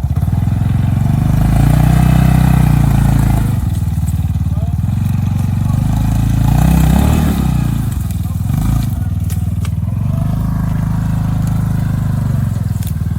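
Honda Talon 1000R UTV's engine running under load while driving through a creek, its revs dipping and then climbing again about two-thirds of the way through.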